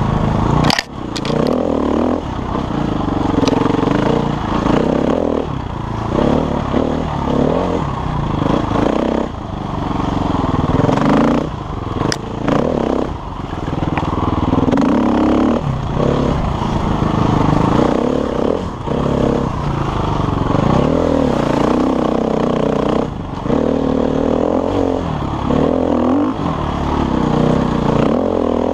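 KTM enduro motorcycle engine running under constantly changing throttle, the revs rising and falling over and over, with a few sharp knocks, one near the start and another about halfway through.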